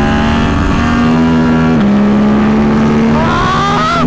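KTM RC8C's V-twin engine running hard at speed on track, with wind noise. Its pitch rises steeply near the end as the revs climb.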